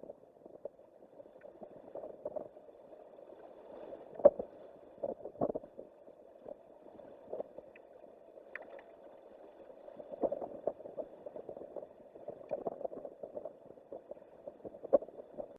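Strong wind buffeting the microphone on the tower spire: a steady rushing with irregular gusty thumps and rattles, the hardest about four seconds in and near the end.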